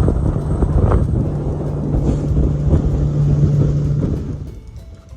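Boat outboard motor running under way, with wind buffeting the microphone. The motor sound drops away about four and a half seconds in, leaving much quieter sound.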